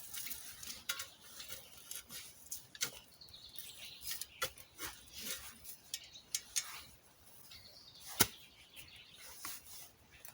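Scattered snaps and crackles of dry twigs and forest litter, with soft rustling between them and one sharp, loud crack about eight seconds in.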